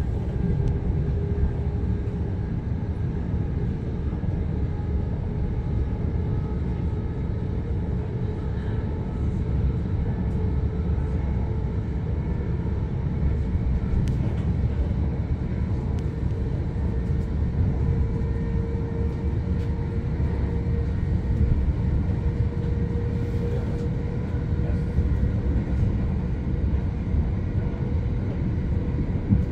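Steady running noise inside an electric passenger train coach at speed: a low rumble of wheels on rails, with a steady whine from the traction drive that rises slightly in pitch partway through.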